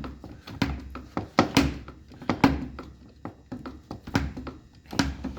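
Irregular metal knocks and clunks, about a dozen in a few seconds, from work on a steel snowplow frame being straightened with a hand-pumped porta power hydraulic ram and hammers.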